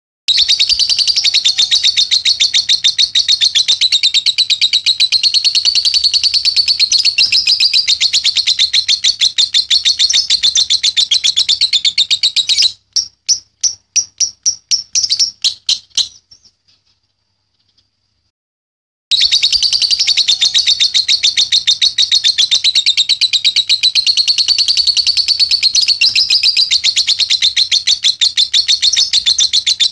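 Young lovebird's 'ngekek' chatter: a long, very rapid, high-pitched trill held for about twelve seconds, breaking into a string of separate chirps, then a pause of about three seconds before another long unbroken trill.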